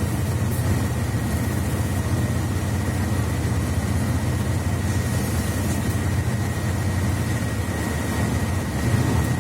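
Running sound of a Mercedes-Benz Citaro C2 articulated bus with a Voith automatic gearbox, heard from inside: a steady low rumble with a thin, steady high whine above it, growing a little louder near the end.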